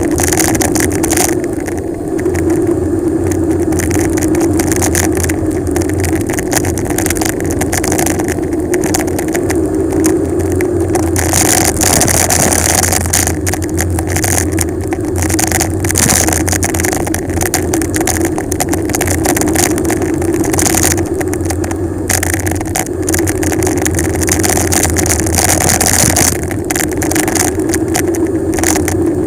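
Wind buffeting the microphone and tyre hum from a bicycle descending a mountain road at speed. There is a steady hum under a constant rumble, and gusts of hiss come and go several times.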